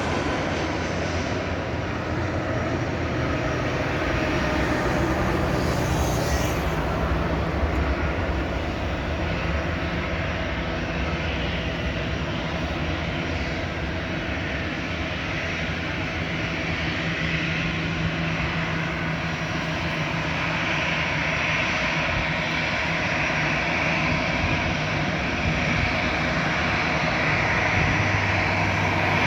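Airbus A320 jet engines running steadily, a continuous rumble with a higher whine that grows stronger about two-thirds of the way through.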